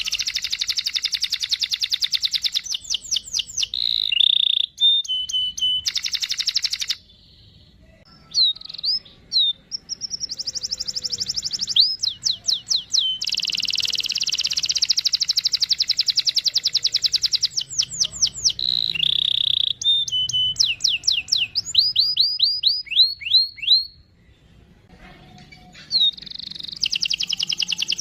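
Canary in full song, delivering long, fast rolls of rapidly repeated notes mixed with chirps. The song breaks off briefly about a third of the way in and again near the end.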